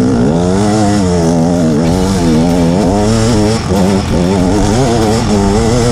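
Two-stroke KTM 250 EXC dirt bike engine revving up and down, its pitch constantly rising and falling as the throttle is worked.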